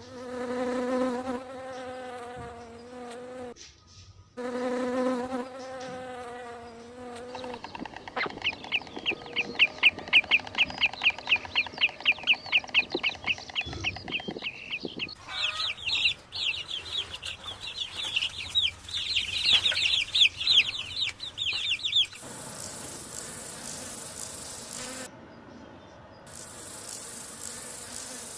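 Animal calls from several clips in turn: two long, steady pitched calls in the first seven seconds, then long runs of rapid, high, repeated chirping pulses, and a steady hiss near the end.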